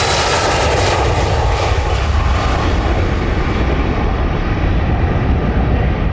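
Jet airliner's engines running loud as the aircraft passes close by, their high-pitched hiss slowly fading as it moves away.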